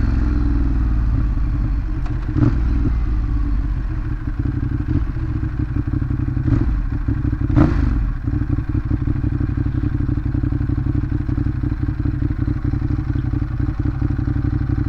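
Ducati Monster 821's L-twin engine with stock exhaust running at low, steady revs after slowing down. A few sharp knocks are heard, at about two and a half, six and a half and seven and a half seconds in.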